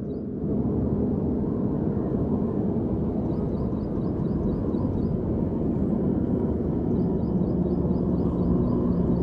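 Stock Royal Enfield Interceptor 650's parallel-twin engine running under way at highway speed, heard from the rider's helmet. The engine gets louder about half a second in and climbs gradually after that. A faint rapid high ticking comes and goes.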